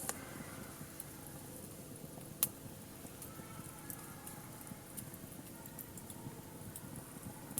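Wood fire crackling with scattered small pops and one sharp, louder pop about two and a half seconds in.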